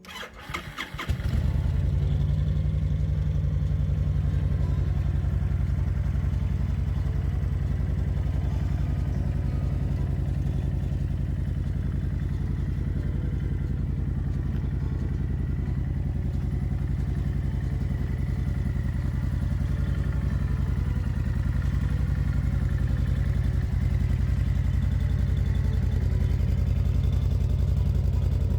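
2010 Honda Fury's fuel-injected V-twin being started: a brief crank in the first second, then it catches and settles into a steady idle.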